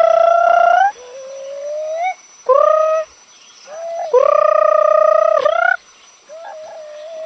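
A bird calling over and over: loud, drawn-out calls of up to a second and a half, each bending up in pitch at the end, alternating with softer, rising calls.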